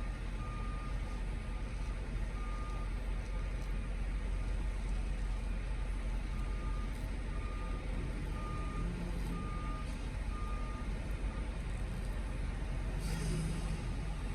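A vehicle's reversing alarm beeping in short bursts at one pitch, about two beeps a second, over a steady low engine rumble. A brief hiss near the end.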